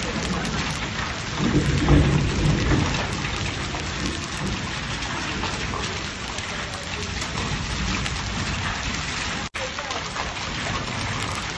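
Steady heavy rain falling and splashing on a concrete yard. A low rumble of thunder swells and fades between about one and a half and three seconds in.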